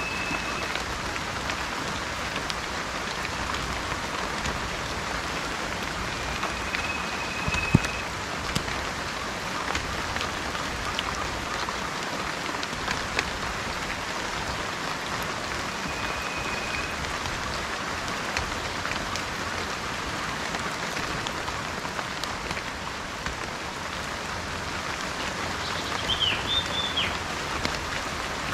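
Steady rain falling on surfaces, with scattered drop ticks and one sharper tap about a quarter of the way in. A bird gives a thin, level whistle about a second long three times, and a brief chirp near the end.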